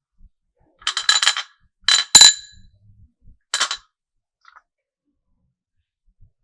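Marbles clacking against each other and the run's track: a quick rattle of ringing clicks about a second in, two sharp loud clacks around two seconds in, another short rattle, then a faint tick.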